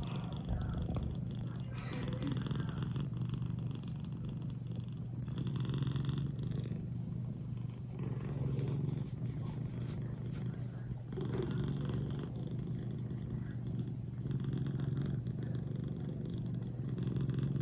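British Shorthair kitten purring steadily, the purr swelling and easing with its breathing about every three seconds.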